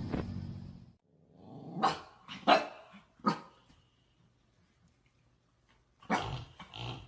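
A dog growling low, then barking sharply three times about two to three seconds in, with more barks near the end.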